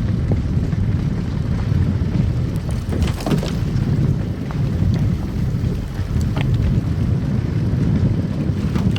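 Car driving on a snow-covered road: a steady low rumble of tyre and road noise, with a few brief crackles, a cluster about three seconds in and another about six seconds in.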